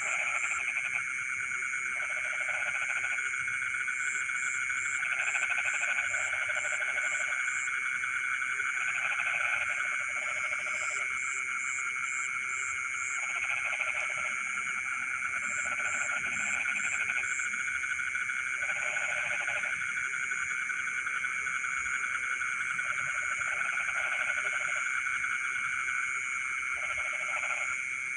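A dense chorus of frogs in a flooded rice field at night: a steady trilling hum underneath, with bouts of croaking that come about every two seconds, each lasting about a second. Short runs of high, rapid chirps sound over it several times.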